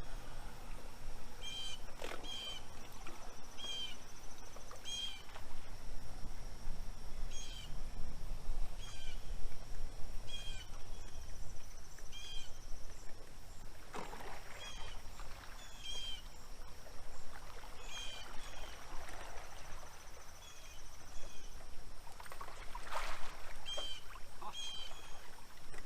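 A bird calling over and over in short, sharp notes, often two at a time, about every second or two. Beneath them runs a thin, steady high-pitched drone, with a low rumble at the bottom.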